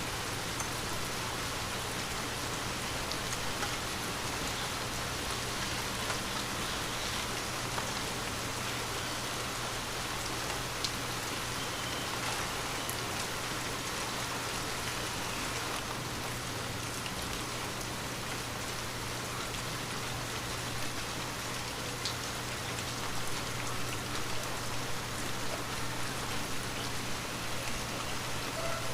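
Light rain falling steadily in a constant hiss, with single drops now and then ticking close by, over a faint steady low hum.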